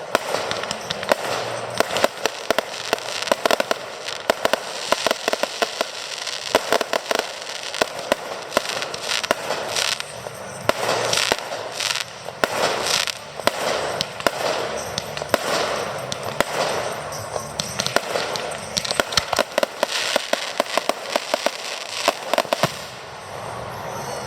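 Fireworks display: a rapid, continuous run of bangs and crackling from aerial fireworks, which stops shortly before the end.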